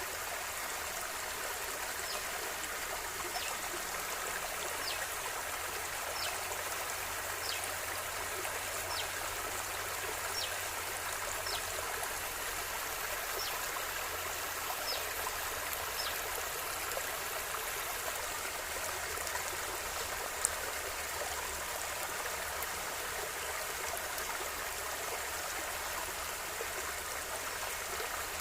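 A river flowing steadily, its water making a continuous rushing and trickling. In the first half, short thin high pips come about once a second, and there is one faint click about two-thirds of the way through.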